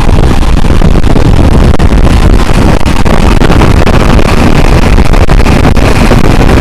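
Pressure washer running steadily at close range, loud, with a heavy engine drone.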